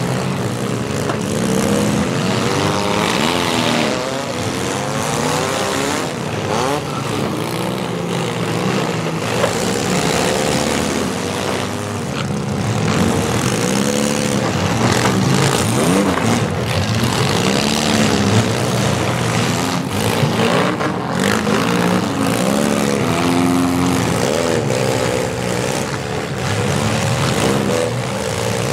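Several demolition derby cars' engines running and revving at once, their pitches rising and falling over and over, with a few sharp knocks.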